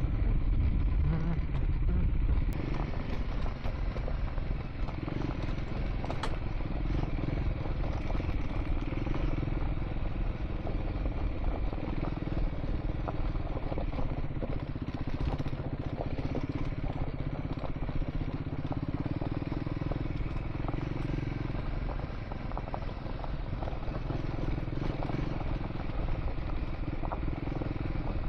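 Triumph Scrambler 400 X single-cylinder engine running steadily under way on a dirt track, its pitch shifting a little. Wind noise and frequent small clicks and clatter from the rough ground run through it.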